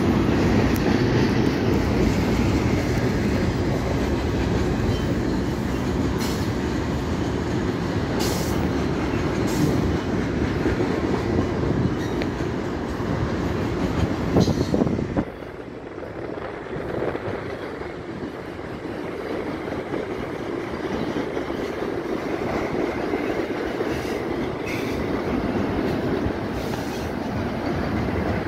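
Double-stack container cars of a freight train rolling past steadily, with occasional sharp clicks from the wheels. The rolling noise drops noticeably about halfway through.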